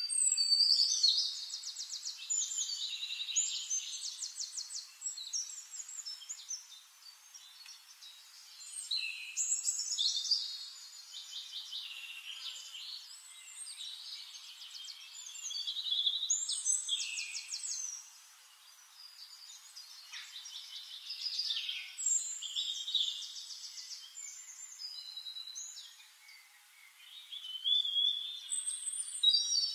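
A songbird singing in phrases of rapid high trills and short whistles. Each phrase lasts a few seconds and they come back about every six seconds, over a faint steady hiss.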